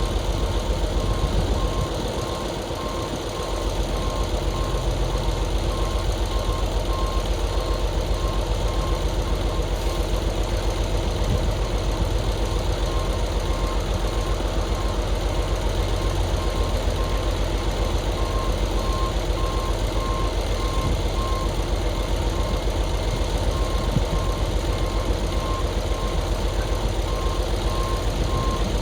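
Dump truck backing up: its reversing alarm beeps steadily at about one beep a second over the low, steady running of the truck's engine.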